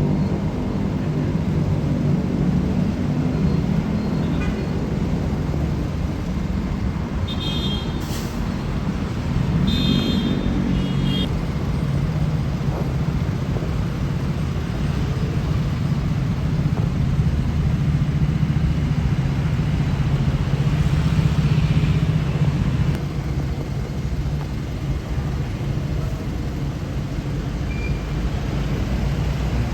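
Road traffic with heavy vehicle engines running steadily. A short high-pitched sound comes twice, about eight and ten seconds in.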